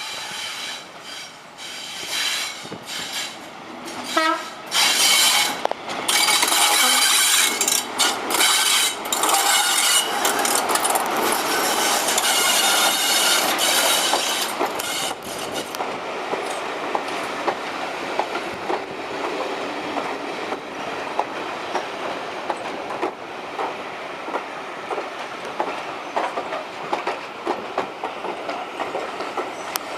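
British Rail Class 73 electro-diesel locomotive pulling away on its English Electric diesel engine. It is loudest as it passes close by, between about 5 and 15 seconds in. From about 16 seconds in it gives way to a steadier rumble of the coaches with a rapid clickety-clack over the rail joints.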